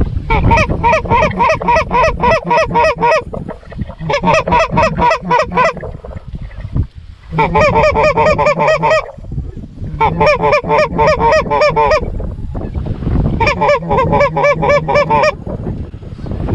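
Canada geese clucking in five quick, even runs of about four or five notes a second, each run lasting two to three seconds, over a low wind rumble.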